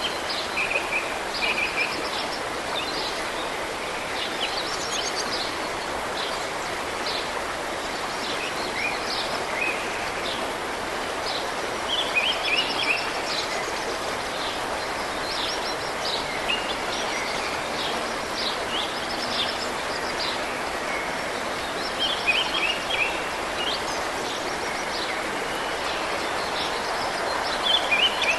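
Steady rush of running water from a mountain stream, with small birds chirping on and off over it.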